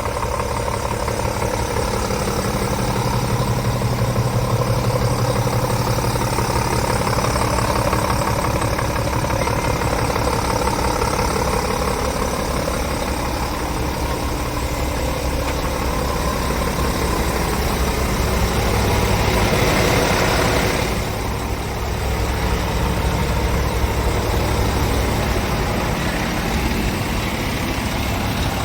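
Scania G410 truck's 13-litre six-cylinder diesel engine idling steadily. Its sound swells briefly about twenty seconds in, then drops back to idle.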